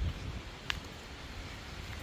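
Wind buffeting the microphone, a fluctuating low rumble over a steady hiss, with one short sharp click about two-thirds of a second in.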